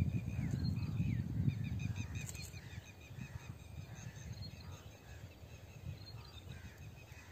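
Birds calling in runs of short high chirps, several a second, some sliding downward, over a low rumble that eases after about two and a half seconds.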